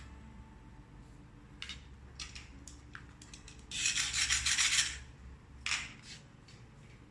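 A plastic security seal being handled, with scattered short scrapes and clicks of plastic. About four seconds in there is one louder rasping scrape lasting about a second, and then a shorter one.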